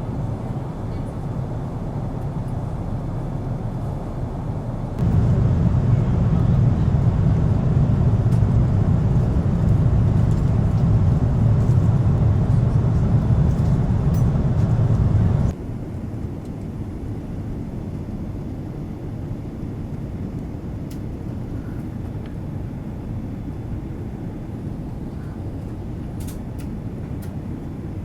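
Steady low rumble of cabin noise inside a Boeing 777-200 airliner, from its engines and airflow. It jumps suddenly louder about five seconds in and drops back about ten seconds later.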